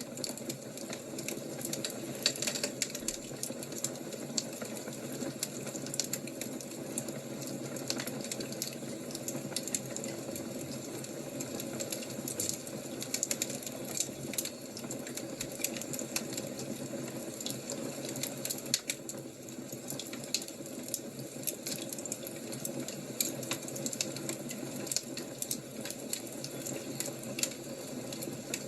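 Fire crackling: a steady low rush with irregular sharp pops and snaps throughout.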